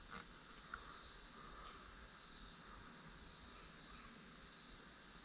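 Steady high-pitched insect chorus: a continuous trill with a fast, even pulse.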